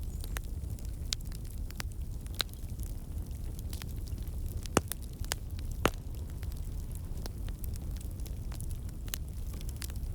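Wood fire crackling in a fireplace: a steady low rumble of flames with scattered sharp snaps and pops, the two loudest just before and just after the middle.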